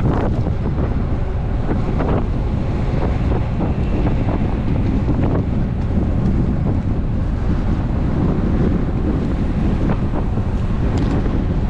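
Wind buffeting a GoPro action camera's microphone on a moving road bike: a steady, loud low rush.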